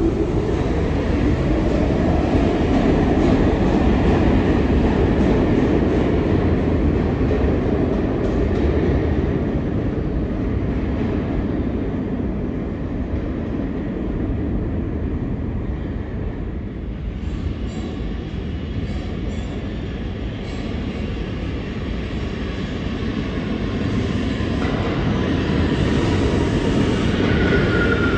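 New York City Subway (A) train moving through the station: a loud, steady rumble of wheels on rail that eases in the middle and builds again, with a thin falling whine near the end.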